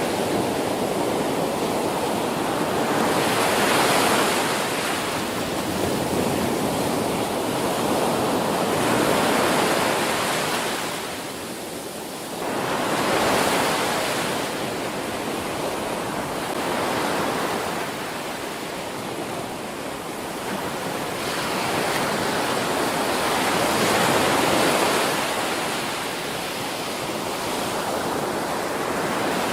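Ocean surf breaking on a beach: a continuous rush of waves that swells and eases every few seconds as each set crashes, with a brief lull about twelve seconds in.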